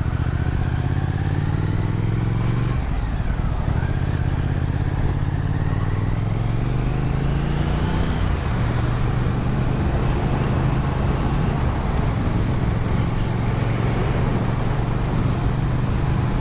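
Motorcycle engine under way: the revs rise, dip sharply about three seconds in, climb again until about eight seconds, then hold steady, over a steady rush of wind and road noise.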